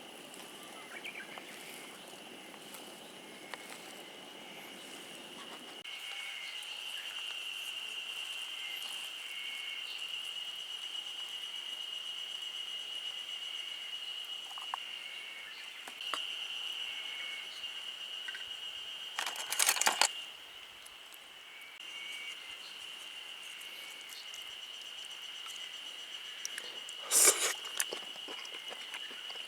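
Steady high-pitched trill, typical of insects calling outdoors, with fainter short chirps beneath it. Two brief loud rustling knocks cut across it, one about two-thirds of the way in and one near the end.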